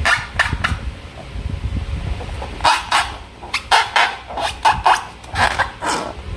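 Slime and balloons handled by hand: a string of short, irregular clicks and squishes, a few at first and then coming thick and fast from a little under halfway through.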